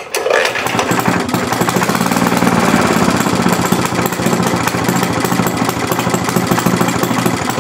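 A 1937 Maytag Model 72 twin-cylinder two-stroke engine, fitted with a new muffler, running steadily with a rapid beat. It sounds like it is starving for gas.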